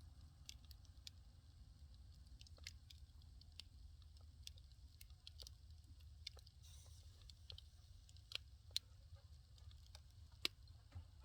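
Firewood fire crackling faintly: scattered sharp pops and snaps at irregular intervals over a low steady rumble, with one louder pop near the end.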